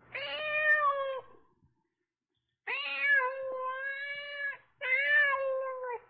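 Domestic cat meowing three times; the middle meow is the longest, nearly two seconds.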